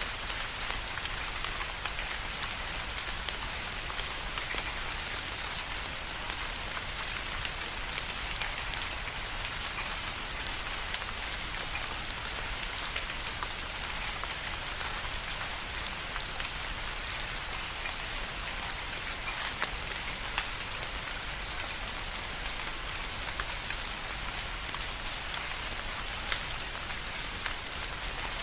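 Steady rain, with many individual drops ticking and pattering on a surface over a continuous hiss.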